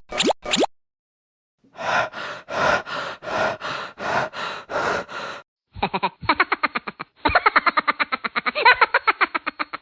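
A string of cartoon sound effects: two short rising boings, then about ten even, noisy pulses at roughly three a second, then a fast clicking rattle of about ten clicks a second from about six seconds in.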